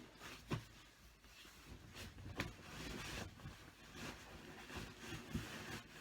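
Faint rustling of bed sheets and covers being handled, with a few soft knocks.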